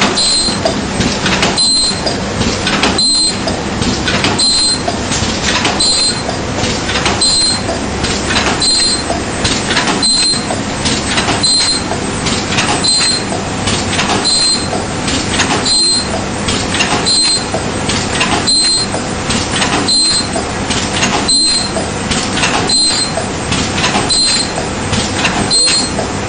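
A 16 oz cold drink cup-making machine running in continuous production. Its clattering mechanism knocks in a steady cycle, with a short high-pitched note returning about every one and a half seconds.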